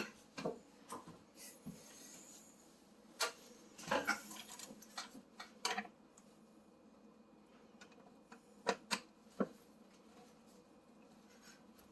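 Hand tool work with a Phillips screwdriver and screws on a stove's control panel: scattered light clicks and taps with a few brief scrapes, and two sharper clicks close together about three quarters of the way through.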